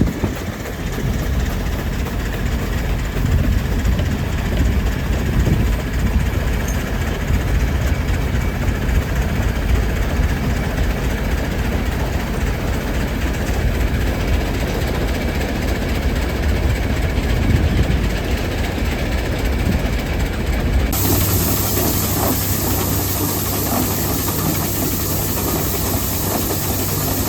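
A Huber steam traction engine running, a steady mechanical clatter. About 21 seconds in it cuts abruptly to a close-up of a Rumely steam tractor running, with a steady low hum and a strong hiss of steam.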